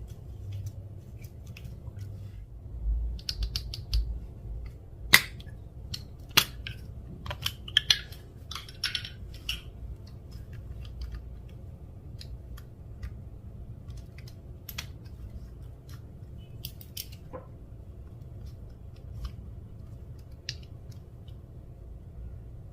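Clear slime being worked by hand, giving irregular sticky clicks and small pops. They come in flurries in the first half, with two sharp snaps about five and six seconds in, and thin out to occasional clicks later.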